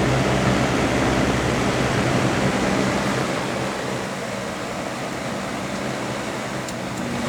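Vintage Superlectric 20-inch box fan with a Lakewood blade set, running with a steady motor hum over the rush of air. About halfway through, the motor hum fades as the fan is switched down or off and the blades coast on in a softer whoosh. Right at the end a stronger hum returns as it is powered up again.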